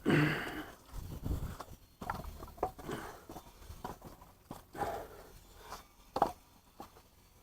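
Footsteps and handling noises: a scrape at the start, then scattered shuffles and a sharp knock near the end.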